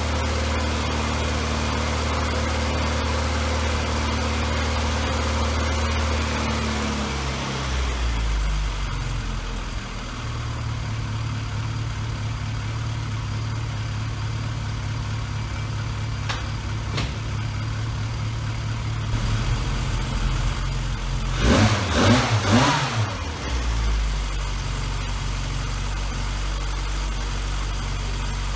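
Classic Mini's A-Series engine running at a fast idle on choke, then dropping to a lower, steady idle about seven seconds in as the choke is pushed in. About two-thirds of the way through it is revved briefly up and back down, then settles to idle again.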